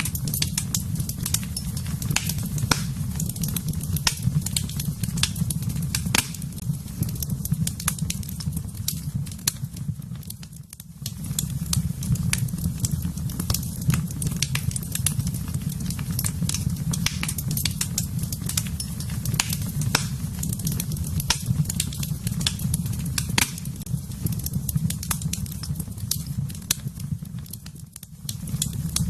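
Wood fire burning in a fireplace: frequent sharp pops and snaps over a steady low rumble of flames. The sound fades briefly about ten seconds in and again near the end.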